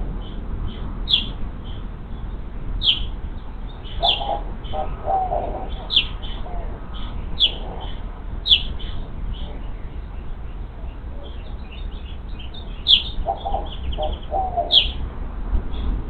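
Wild birds calling: a short, high, downward-sweeping chirp repeated every second or two, with a second, lower call in short runs about four seconds in and again near the end, over a low steady rumble.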